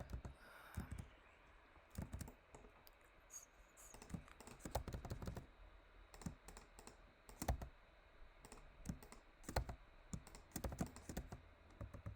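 Computer keyboard keys and mouse buttons clicking in irregular, scattered clusters, the keystrokes and clicks of someone working in 3D modelling software.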